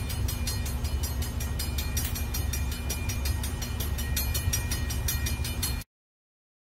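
Diesel freight locomotives running past with a steady low drone and rapid clicking from wheels on the rails, cutting off abruptly near the end.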